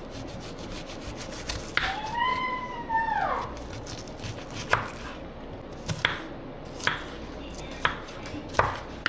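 Kitchen knife chopping an onion on a cutting board: separate sharp knife strikes, roughly one a second. About two seconds in comes a short high squeal that rises and then falls.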